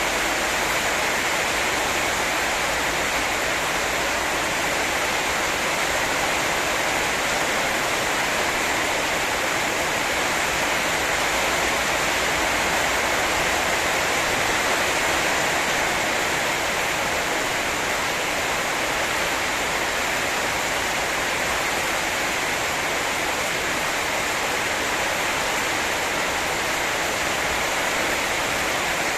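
Heavy rain pouring steadily in a rainstorm, an even, unbroken hiss with no pauses.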